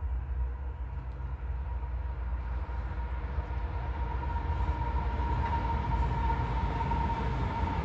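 Approaching freight train with a diesel locomotive: a low rumble that grows louder, with a steady high tone that strengthens through the second half.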